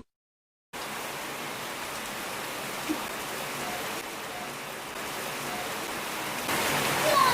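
Steady rain falling, an even hiss, after a short moment of dead silence at the start.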